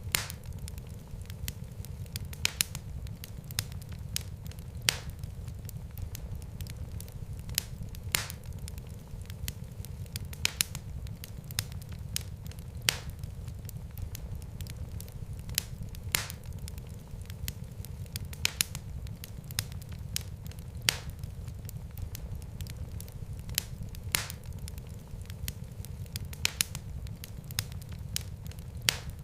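Wood fire crackling in a fireplace: a steady low rumble of burning with sharp pops and snaps every one to three seconds.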